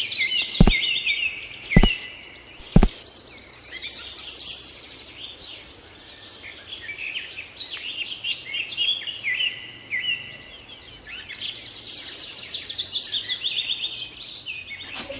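Small birds chirping and twittering continuously in quick repeated phrases, with three sharp clicks in the first three seconds.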